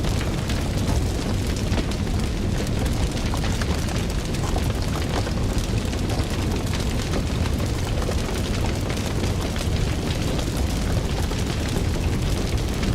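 Fire crackling: a dense stream of small pops and snaps over a steady low rumble of burning.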